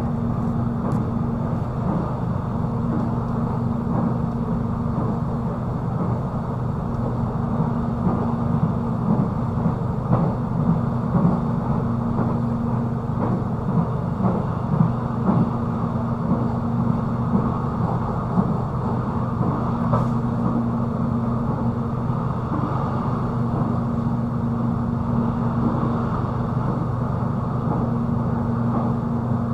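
Electric airport train running at speed, heard from inside the passenger car: a steady rumble of wheels on the rails under a constant low hum, louder and more uneven for a few seconds about a third of the way through.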